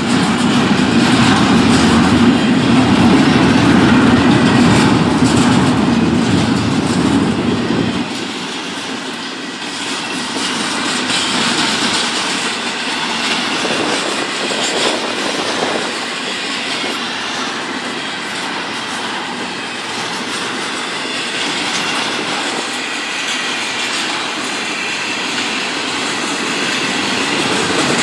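A diesel-hauled train passing close by: a heavy low rumble for about the first eight seconds that drops off suddenly as the locomotive goes by, then the railcars rolling past with steady wheel clatter over the rail joints and a faint squeal of wheels.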